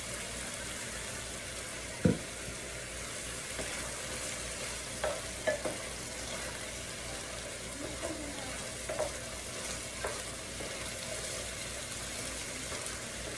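Chicken and vegetables sizzling steadily in an electric skillet while a wooden spatula stirs them, knocking and scraping against the pan now and then, with a sharper knock about two seconds in.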